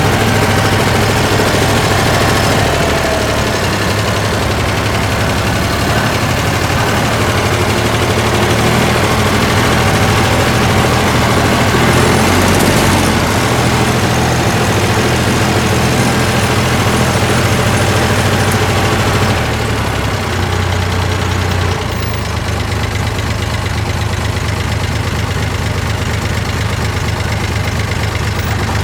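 David Brown 885 tractor's three-cylinder diesel engine running steadily, the sound dropping slightly in level twice about two-thirds of the way through.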